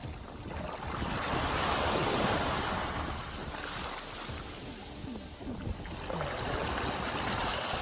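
Sea waves breaking and washing up the beach, the surf swelling loudest about two seconds in and again near the end.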